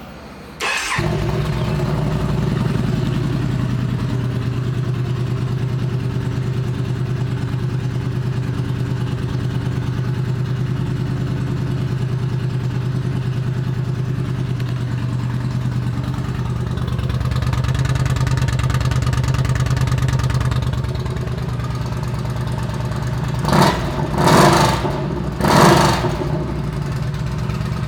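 Yamaha V-Star 950 air-cooled V-twin with a Vance & Hines 2-into-1 exhaust starting up and catching within a second, then idling steadily. Near the end the throttle is blipped three times and the engine drops back to idle.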